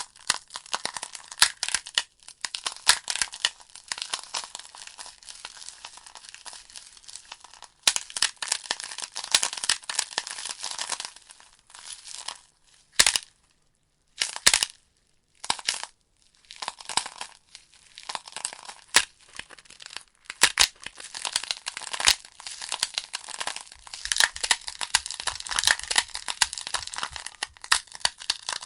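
Wood fire crackling: a dense run of snaps and pops from burning logs, which thins to a few single pops for a few seconds midway before picking up again.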